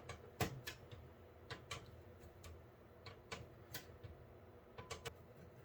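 Rear expansion-slot screws of a PC case being loosened by hand: a dozen or so small, irregular metallic clicks and ticks.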